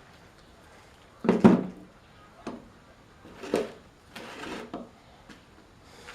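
Irregular knocks and clatter of metal parts and tools being handled, the loudest just over a second in, followed by a few lighter knocks and a short scraping rub a little past the four-second mark.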